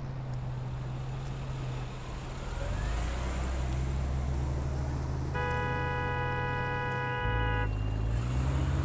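Car engine running with a steady low rumble that deepens and grows louder about two and a half seconds in as the car pulls away. Past the middle, a steady multi-tone sound like a car horn is held for about two seconds.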